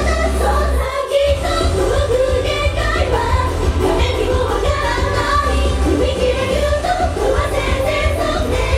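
Japanese idol-pop song performed live: the group singing over a backing track with a heavy bass beat. The bass drops out for a moment about a second in.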